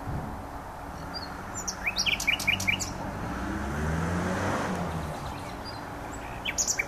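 Common nightingale singing: a quick phrase of five or six rising notes about two seconds in, and a couple more notes near the end. A low rumble swells and fades in the middle.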